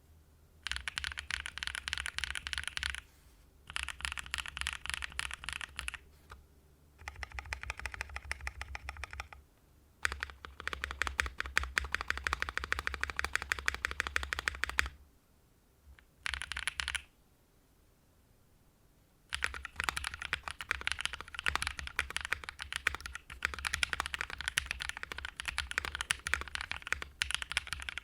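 Typing sound test on a mechanical keyboard with hand-lubed KeebsForAll Pink Robin linear switches (nylon bottom, polycarbonate top housings, long-pole stems), in a Mode Envoy with a polycarbonate plate, no foam and GMK ABS double-shot keycaps. The keys give a deep, clacky downstroke and a quick, slightly higher top-out. The keystrokes come in fast runs of a few seconds each, broken by short pauses.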